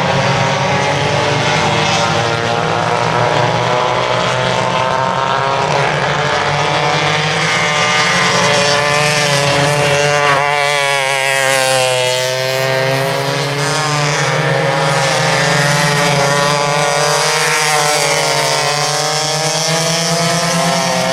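Vintage racing go-kart engines running hard on track. About halfway through the engine pitch falls as the karts slow, then climbs again as they accelerate, with further rises and falls near the end.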